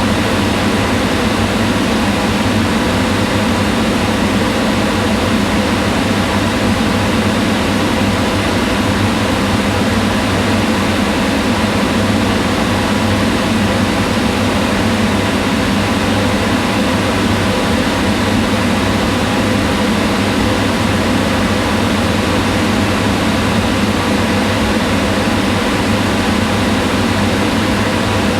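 Kitchen range hood fan running steadily: an even whirring hum with its weight low down and a few faint steady tones through it.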